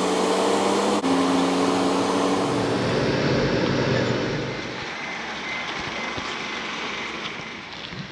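Car engine running with a steady hum, giving way after about four seconds to a quieter, even road or cabin noise.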